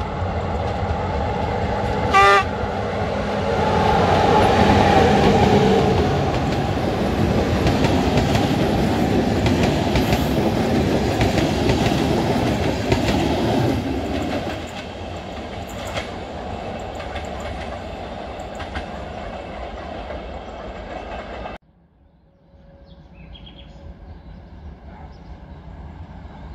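Electric locomotive hauling a passenger train gives a short horn blast about two seconds in. The train then passes close by, wheels clattering on the rails, loudest a few seconds later and fading as it moves away. After an abrupt cut near the end, a train is faintly heard in the distance.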